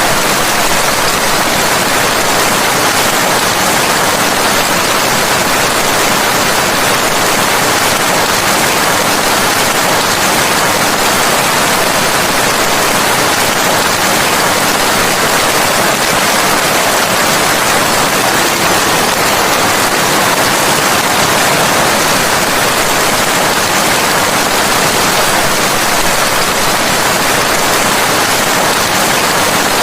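Steady rain, an even, unbroken hiss that does not change.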